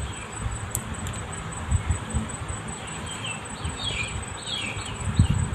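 Steady high-pitched insect trill, with a bird's short falling chirps repeating in the second half, over low rumbles and knocks of handling.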